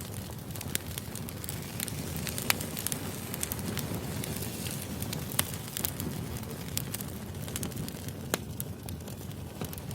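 Burning firewood crackling: irregular sharp pops over a steady low rumble, with three louder snaps about two and a half, five and a half and eight and a half seconds in.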